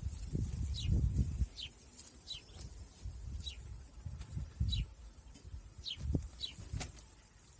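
A small bird chirping over and over, each chirp a short note falling in pitch, about one or two a second. Low rumbling bursts underneath, loudest in the first second and a half.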